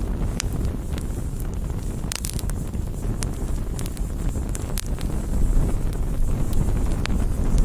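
Wood campfire burning: a steady low rumble with scattered sharp crackles and pops of the burning wood, including a quick cluster of pops about two seconds in.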